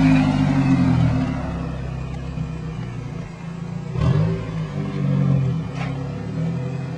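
Nissan Sentra Spec-V's 2.5-litre four-cylinder engine running with its muffler unbolted. Revs fall back to idle at the start, then short throttle blips come about four and five seconds in.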